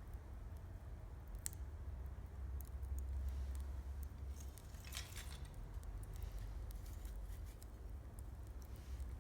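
Wood campfire crackling, with scattered sharp pops and a denser flurry of crackles about five seconds in, over a low steady rumble.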